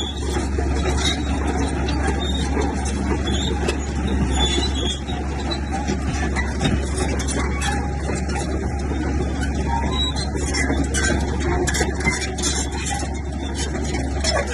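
Heavy diesel earthmoving machinery running steadily with a constant deep engine hum, overlaid with rapid high-pitched clicking and squeaking throughout.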